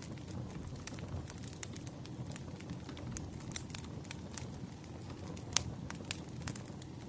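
Wood fire crackling: a steady low rumble of burning with irregular sharp pops and snaps, one louder pop about five and a half seconds in.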